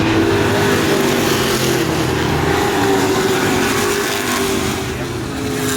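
A field of short-track racing trucks running laps at speed, several engines' tones overlapping and shifting in pitch as they pass.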